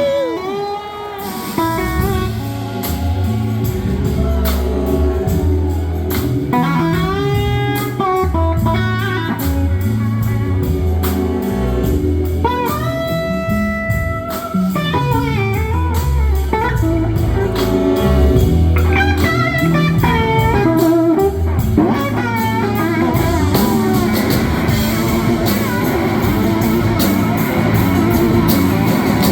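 Live rock band playing an instrumental break: an electric guitar lead with gliding, bending notes over bass and drums.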